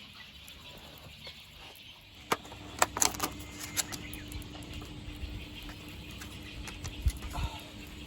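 Quiet at first, then a few sharp metallic clinks and knocks a little over two seconds in, followed by a steady crackling sizzle of meat frying in an iron frying pan.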